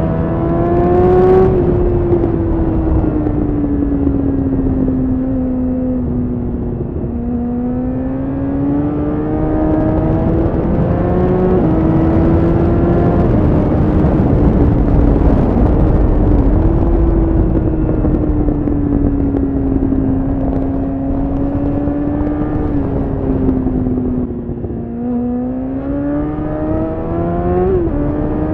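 Honda CBR1000RR Fireblade's inline-four engine running under way, recorded on board. Its note climbs and sags with the throttle and drops sharply a few times as it shifts up a gear.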